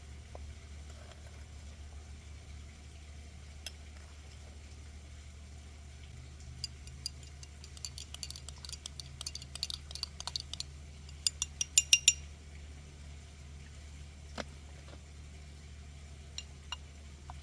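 Utensils clinking against dishes: a flurry of small clicks and chinks in the middle, the last few ringing briefly like glass or metal, over a steady low hum.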